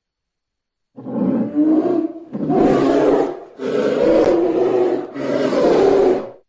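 A large wild animal roaring four times in a row, each roar a rough, drawn-out call of about a second.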